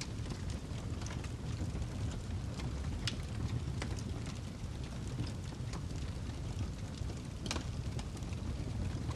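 Wood log fire burning in a fireplace, crackling: scattered irregular pops over a steady low rumble, with one sharper pop about seven and a half seconds in.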